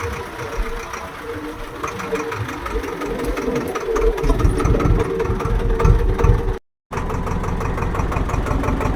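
Swaraj tractor's diesel engine running steadily with a pulsing beat, its low rumble getting louder about halfway through. The sound cuts out for a moment about two-thirds of the way in.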